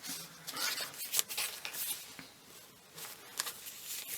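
Paper rustling and scraping in short, irregular bursts as the card and paper pages and tags of a handmade junk journal are handled, with a few sharp clicks.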